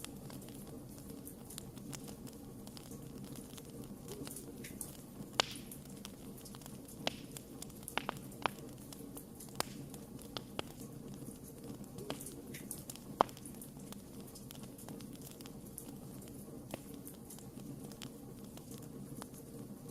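Wood fire crackling: irregular sharp pops and snaps over a steady low hiss, the loudest snap about two-thirds of the way through.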